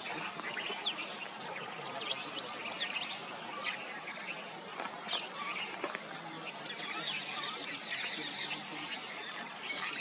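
Mynas calling, many short rising and falling calls overlapping throughout, over a steady high-pitched insect trill.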